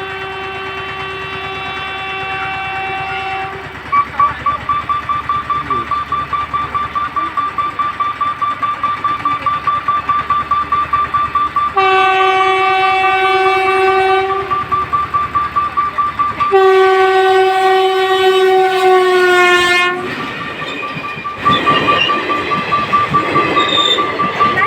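A local electric train's horn blows three times: once at the start, again a few seconds later, and a third longer blast that drops slightly in pitch as the train comes past. Between the blasts a rapid beeping runs at about three beeps a second. Near the end the train rolls by with rattling wheels.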